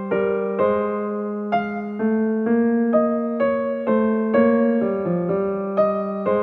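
Soft background music: a gentle piano or electric piano melody of single notes struck about every half second, each fading before the next.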